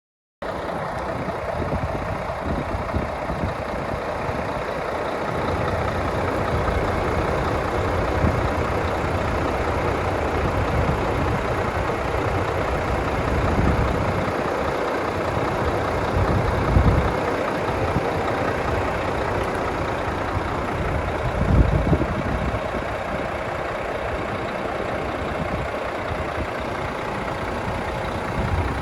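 Renault T460 tractor unit's 460 bhp diesel engine idling steadily, with a few brief low rumbles partway through.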